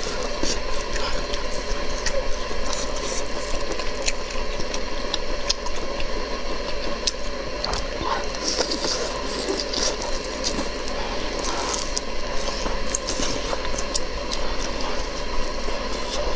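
Close-miked chewing and small mouth clicks of someone eating, over a steady background noise with a low hum.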